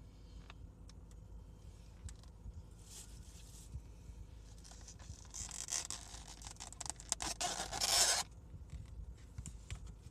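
Rustling and scraping of takeout food packaging being handled and opened: a short burst about three seconds in, then a longer run of quick scraping strokes from about five to eight seconds in.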